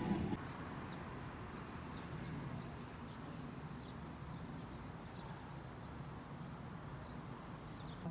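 Small birds chirping faintly, many short, high, falling chirps at irregular intervals, over a steady low background hum of outdoor ambience.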